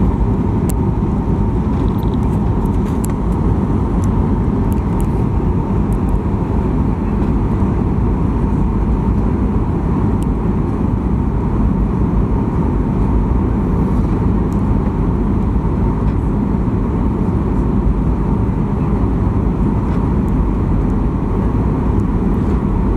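Steady cabin rumble inside a Boeing 737-800 on its landing approach: CFM56-7B engine noise and airflow over the fuselage, heard from a window seat, with a faint steady tone.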